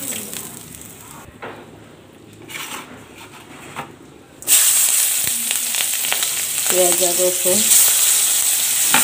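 Hot oil in a metal karahi, quiet at first; about halfway through, onion and green chillies go into the oil and it bursts into a loud, steady sizzle.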